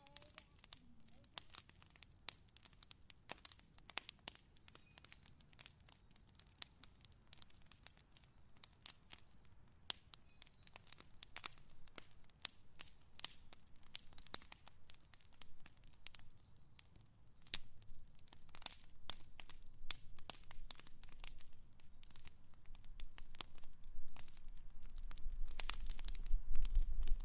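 Wood fire crackling, with irregular sharp pops and snaps. A low rumble builds over the last few seconds.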